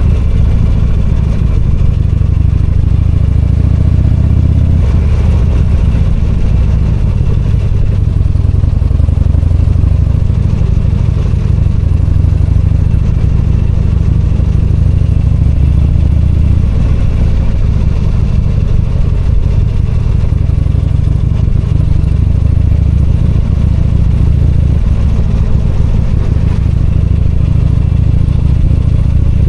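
V-twin motorcycle engine running under way, its note rising and falling gently with the throttle.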